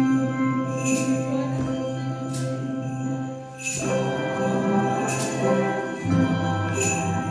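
Handbell choir playing ringing chords that are held for several seconds before changing, with a bright jingling accent about every second and a half.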